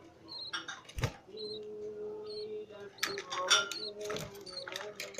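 Budgerigar chicks giving short, high begging chirps and squeaks while an adult budgie feeds them, in irregular clusters, busiest about a second in and again from about three seconds in.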